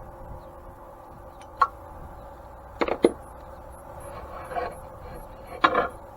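Sharp knocks and clinks of metal parts being handled and fitted during reassembly of an antique grain mill. There is a single knock about one and a half seconds in, two close together near three seconds, softer rattling around four and a half seconds, and a last strong knock near the end.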